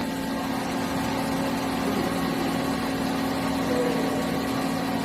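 HNK HB-130 CNC horizontal boring mill running with a steady machine hum as its headstock is jogged down along the Y axis.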